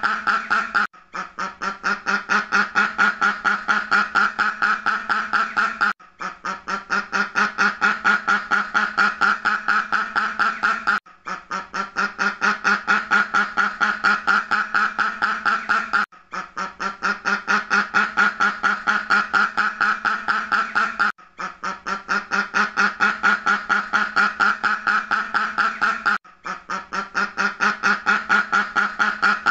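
A duck quacking in a rapid, evenly paced run of calls. The same stretch of about five seconds repeats as a loop, with a short break between repeats, and each repeat grows louder over its first second or two.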